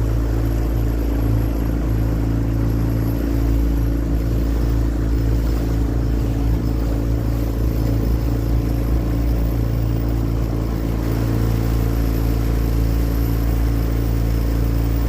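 Small outboard boat motor running at a steady speed, with a strong low rumble beneath its hum.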